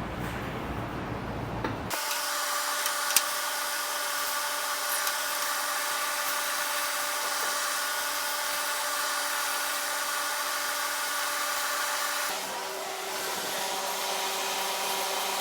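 A small motor running with a steady whine that starts suddenly about two seconds in and changes pitch about twelve seconds in.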